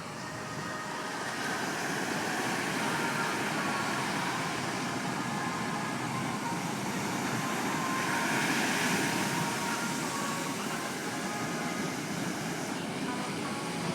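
Typhoon-driven surf breaking on the beach: a steady rush of waves that swells about eight seconds in, then eases.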